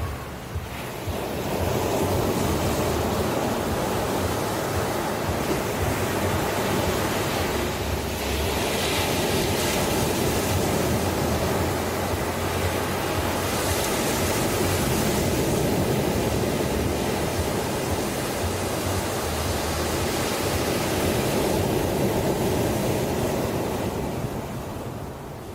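Ocean surf: a continuous rush of waves washing in, swelling a second or two in and easing near the end.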